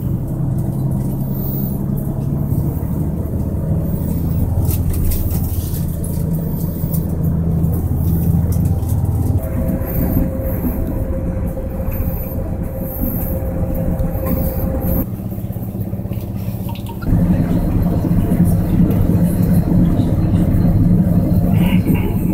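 Regional passenger train running, heard from inside the carriage: a steady low rumble with a hum from the drive. The hum changes abruptly in pitch and level a few times, and the noise is louder over the last five seconds.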